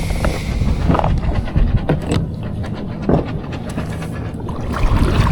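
Low, rumbling wind noise on the microphone, with a few short knocks about one, two and three seconds in.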